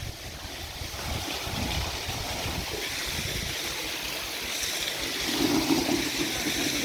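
Water gushing steadily from a Lister 6 hp diesel pump set's delivery, as a continuous rushing noise that grows louder a few seconds in, with the engine running low underneath.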